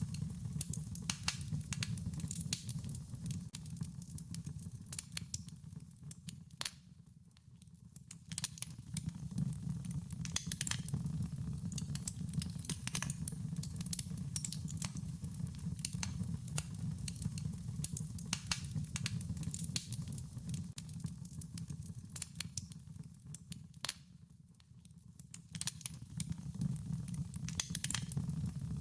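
Wood fire crackling, with many sharp irregular pops and snaps over a steady low rumble of burning. The fire goes briefly quieter twice, about a quarter of the way in and again near the end.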